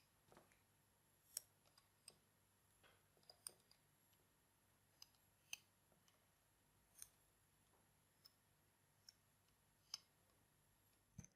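Faint, irregular clicks of a plastic hook and rubber bands snapping against the pegs of a plastic bracelet loom as bands are placed and pulled over, about one click a second.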